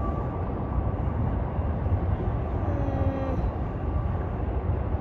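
Norfolk Southern intermodal freight train rolling past, its wheels and cars making a steady, even rumble on the rails.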